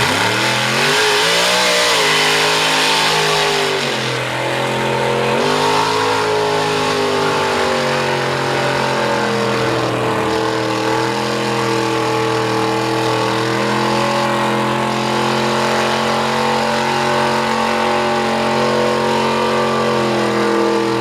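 Mud truck engine running at high revs as the truck pulls through a mud pit. The pitch dips and climbs back a few times early on, then holds fairly steady under load.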